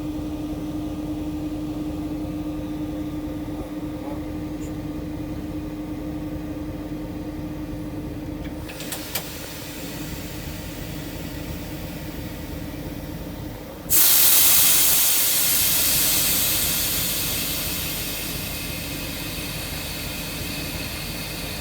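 Railway locomotives running with a steady low hum. About two-thirds of the way in, a sudden loud hiss bursts out and slowly dies away over several seconds.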